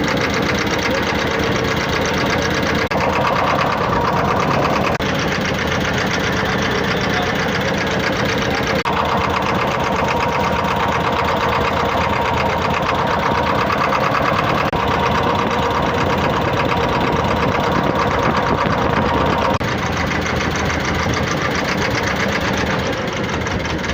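A boat's diesel engine running steadily up close with a rapid knocking chug. Its tone shifts a few times as the throttle or load changes.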